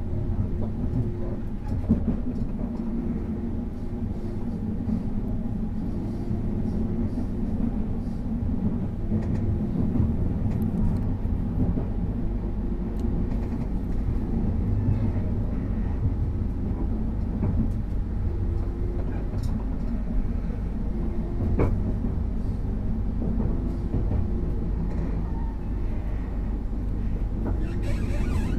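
Steady low rumble of a moving passenger train, heard from inside the carriage: wheels running on the track at speed, with one sharp click about three-quarters of the way through.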